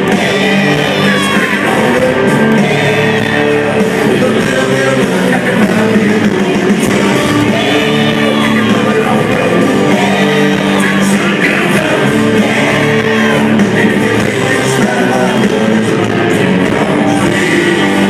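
Live country-rock band with a male lead singer playing loud over a concert sound system, with shouts from the crowd.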